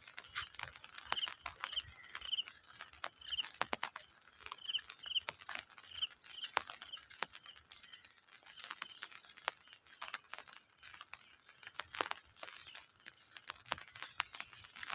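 Crickets trilling steadily in rice-paddy country, with short repeated chirps over the trill in the first half and frequent sharp clicks and taps throughout.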